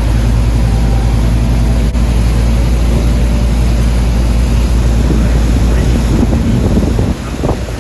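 Boat engine running steadily, with wind noise on the microphone.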